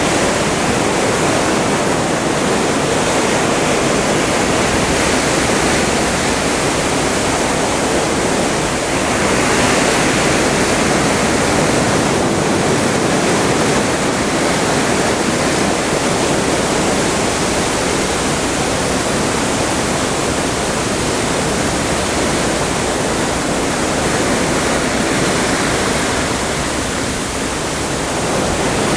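Open Atlantic seawater rushing and churning past the hull of a moving cruise ship: a steady wash that swells briefly about a third of the way in.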